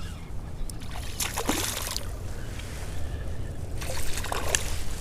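River water splashing and sloshing as a small smallmouth bass is played in on the line, in two bursts about a second and a half and four seconds in, over a steady low rumble.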